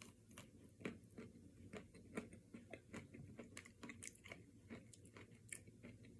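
Faint crunching and chewing of a mouthful of chocolate-coated ice cream bar with a crispy outer coating: a quick, irregular series of small crunches, about three a second.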